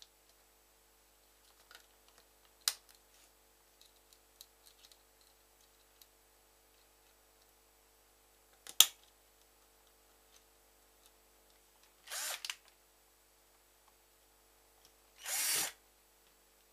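Light ticks and two sharp clicks as the mouse is put back together, then a small electric screwdriver runs in two short bursts of about half a second each, driving the shell screws back in.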